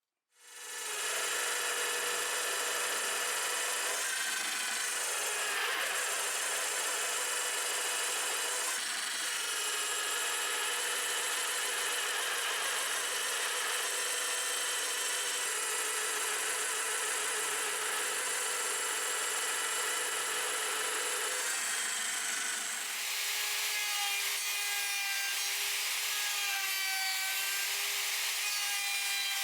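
A power tool starts up and runs steadily on wood, the workshop sound of a guitar build. About 23 seconds in its sound changes, its pitch wavering up and down as if the tool is worked against the piece.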